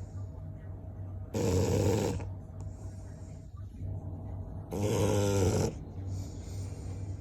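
English bulldog snoring: two loud snores, one about a second in and one about five seconds in, each lasting under a second, with softer breaths between them.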